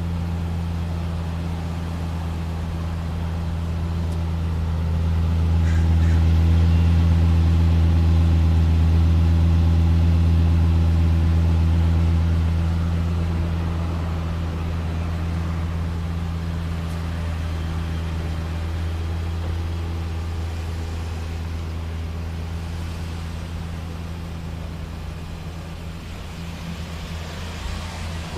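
Lexus LFA's 4.8-litre V10 idling with a steady, deep exhaust note that holds its pitch throughout; it grows louder from about four seconds in, stays loudest for several seconds, then slowly fades.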